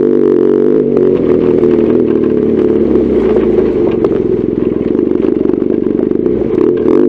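BMW R1200GS Adventure's boxer twin engine running steadily while the motorcycle is ridden, with a few short knocks along the way.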